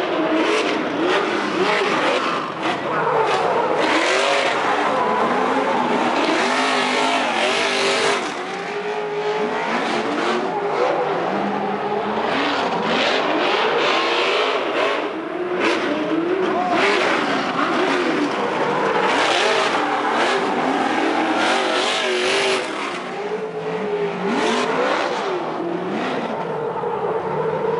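Trophy truck race engines revving, their pitch rising and falling over and over, with more than one engine heard at once.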